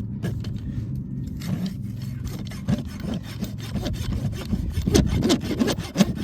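Farrier's rasp filing a horse's hoof: a run of quick, irregular scraping strokes.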